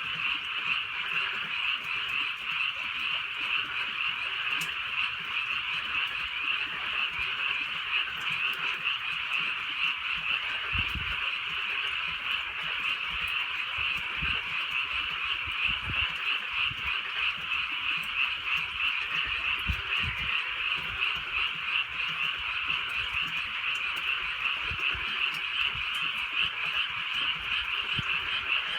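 A dense chorus of many frogs croaking at once, a steady pulsing din with no pause. A few soft low thumps sound here and there.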